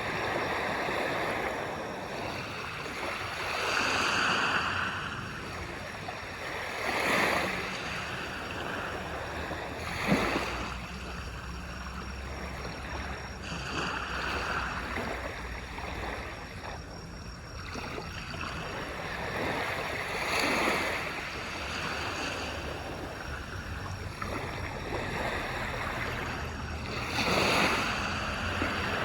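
Ocean waves breaking on a beach: surges of surf every few seconds, each rising and washing back, with one sharper splash about ten seconds in. A low rumble sits under the surf from then on.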